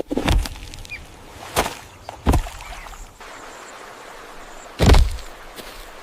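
Four heavy thumps, the loudest just before the end.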